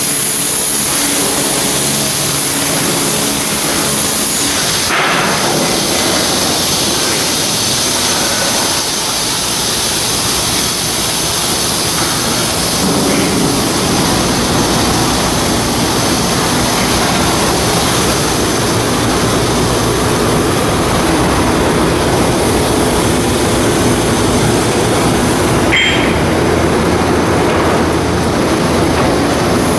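Loud, steady industrial machinery noise: a continuous dense hiss with a faint high whine running through it.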